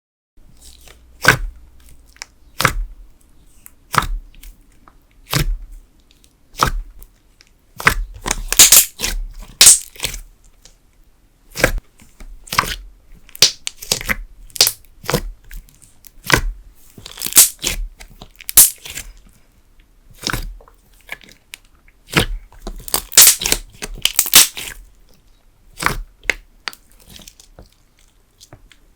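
Thick candle slime, soy wax mixed into a wood glue and school glue base, handled so that it gives sharp cracking snaps, single or in quick clusters about once a second, the loudest runs about a third of the way in and again near the end.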